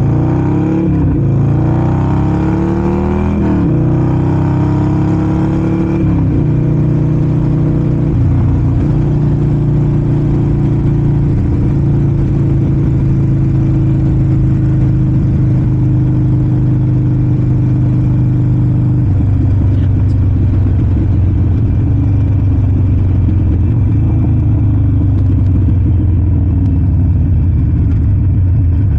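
Harley-Davidson Sportster 48's V-twin engine accelerating through about three gears, each rise in pitch cut off by a shift, then holding a steady cruising note that drops slightly about two-thirds of the way in.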